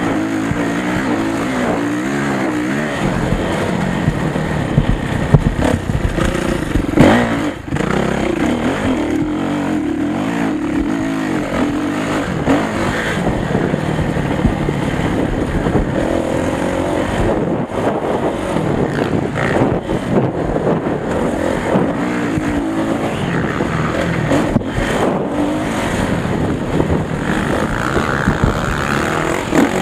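Motocross motorcycle engine running hard, its pitch rising and falling continuously as it revs up and down the throttle, with a couple of sharp loud peaks about five and seven seconds in.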